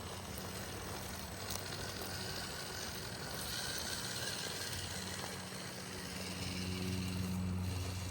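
A small motor running with a steady hum over a constant hiss, growing louder for a couple of seconds near the end.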